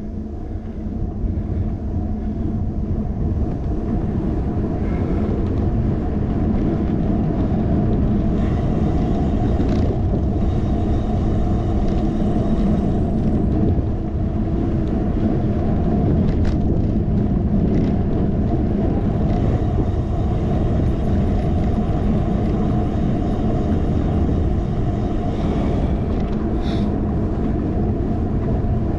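Steady low rumble of wind and road noise on a handlebar-mounted action camera's microphone while riding a bicycle, growing louder over the first few seconds and then holding.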